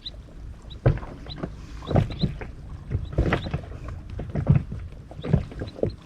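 Water slapping and knocking irregularly against the hull of a small inflatable boat at sea, with a few brief high squeaks.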